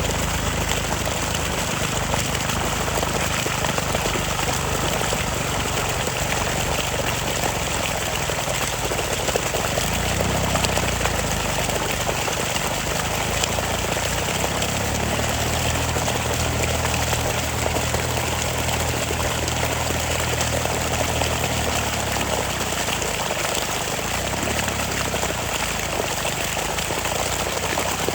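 Eicher 485 tractor engine running steadily under load while puddling, its low hum shifting in pitch about ten seconds in and again for several seconds near the middle.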